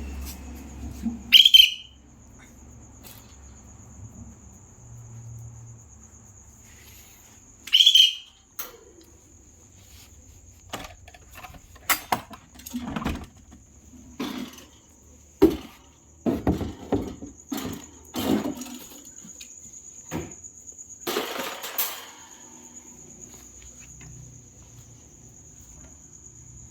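Birds giving two loud, short screeching calls, about a second and a half in and again near eight seconds, over a steady high insect drone. Later comes a run of knocks and rustles.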